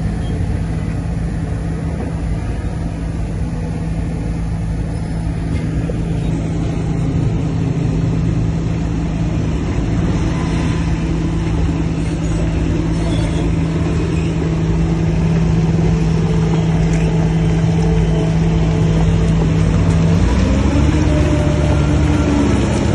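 Heavy diesel engine of earthmoving machinery running steadily, with a change in engine pitch about twenty seconds in.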